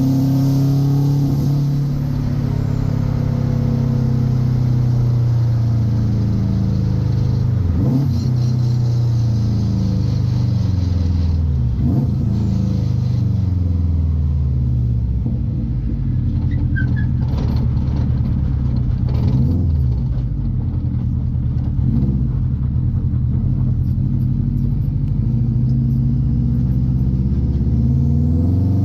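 Swapped-in Subaru 2-litre WRX flat-four engine pulling the drift car along, its pitch sliding down and climbing again as the car slows and speeds up, with a few short knocks along the way.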